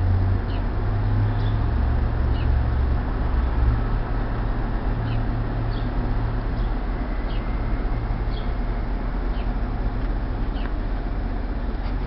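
Small birds chirping: short, high, faint chirps every second or so. A loud, steady low rumble of city background noise runs underneath them.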